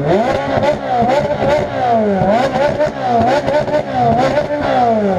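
Ferrari engines revved hard in repeated quick blips, the pitch climbing and dropping again every half second to a second.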